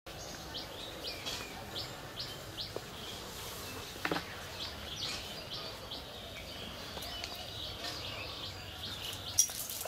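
Small birds chirping in the trees: a run of short, high chirps about two a second, then more scattered calls over a steady outdoor background, with a sharp click about four seconds in and another near the end.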